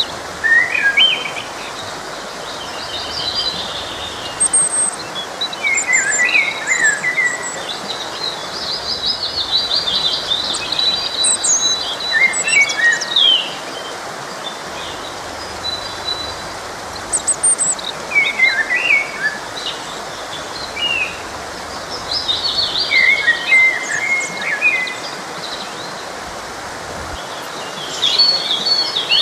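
Songbirds singing in quick, chirping phrases every few seconds over the steady rush of a flowing forest stream.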